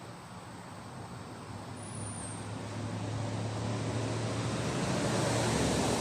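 A road vehicle passing, its engine hum and tyre noise growing steadily louder as it approaches.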